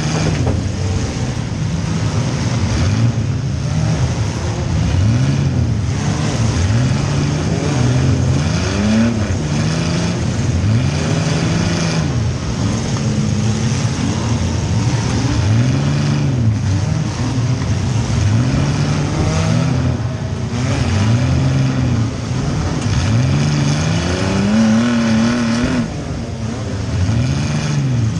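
Compact demolition derby car's engine revving up and falling back over and over, in swells about every two seconds, heard from inside the car.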